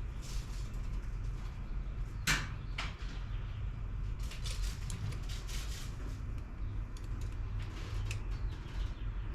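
Light clicks and knocks of hand work on engine parts, with one sharp knock about two seconds in and scattered small clicks after it, over a steady low hum.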